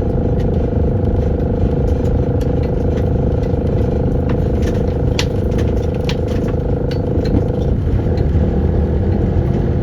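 Car driving with heavy low road and wind rumble. A steady hum cuts out about eight seconds in, and scattered clicks and crackles come through the middle.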